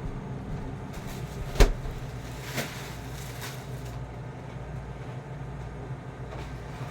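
A sharp knock about one and a half seconds in and a lighter click about a second later, from items being handled and set down while a refrigerator is being unloaded, over a steady low hum.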